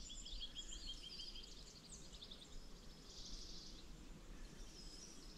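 Faint songbirds singing: a quick run of repeated chirps, then scattered calls and a short high trill about three seconds in, over a soft background hush.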